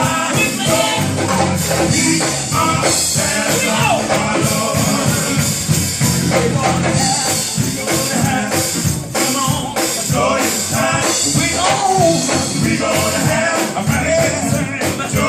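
Live gospel music: choir singing over a band with a steady, upbeat beat and tambourine.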